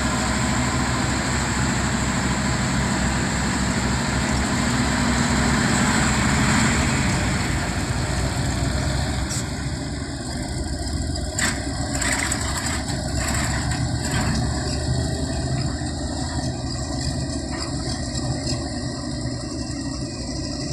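Heavy diesel engine of a dump truck or excavator running steadily, louder for the first several seconds and then settling lower. From about nine seconds in, a few sharp knocks sound over the engine.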